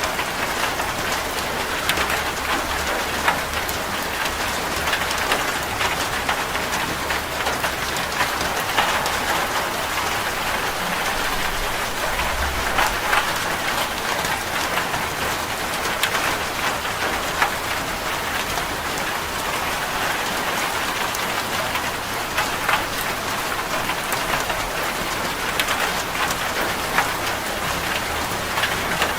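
Steady rain falling on a corrugated zinc roof: a dense, even patter with many sharp individual drop strikes on the metal.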